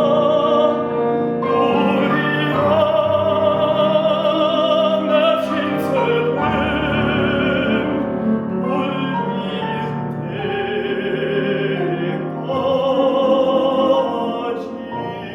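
Baritone singing long, held classical notes with a wide vibrato over piano accompaniment.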